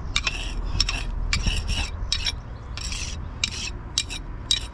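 Repeated short rasping scrapes of a hand tool working over fresh mortar joints between engineering bricks, about three strokes a second.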